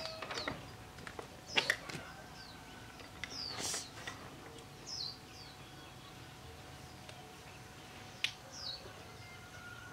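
Scattered short bird chirps, each falling quickly in pitch, with a few sharp clicks: two together about a second and a half in and one near the end.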